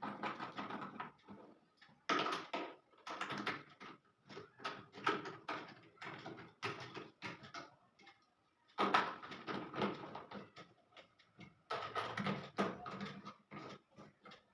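Bursts of rapid metallic clicking and rattling, each one to two seconds long with short pauses between, as bolts are worked in to fasten a front-load washing machine's front counterweights.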